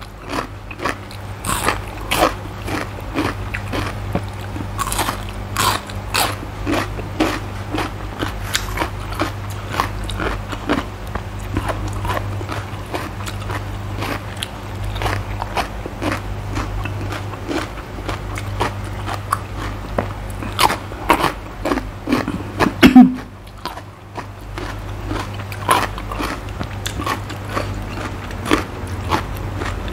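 Close-miked crunchy chewing and biting of raw vegetables, mainly sweet red bell pepper, from a spicy Thai cucumber salad: a dense, irregular run of crisp cracks and clicks. Close to three-quarters of the way through there is a brief voiced sound from the eater, and a steady low hum runs underneath.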